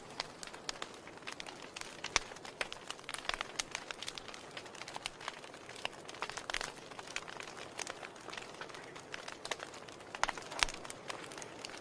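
Wood fire crackling in a fireplace: a steady hiss with irregular sharp pops and snaps, a few louder pops about ten seconds in.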